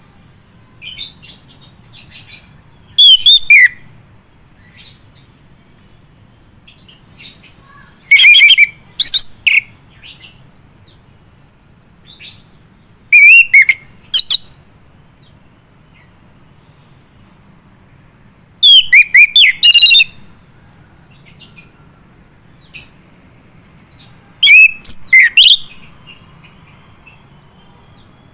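Male chestnut-capped thrush (anis kembang) singing: five loud bursts of rapid, high, sweeping notes a few seconds apart, with softer single calls between them.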